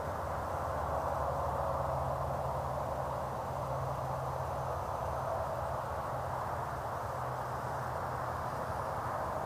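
Steady hum of battery-powered radio-controlled model aircraft flying, the electric motors and propellers making an even buzzing drone with no change in pitch.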